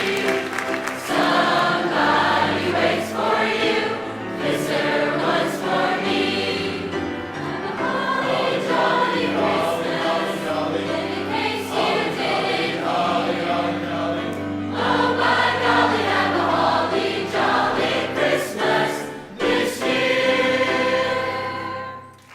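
High school choir singing a Christmas piece, ending on a final chord that cuts off just before the end.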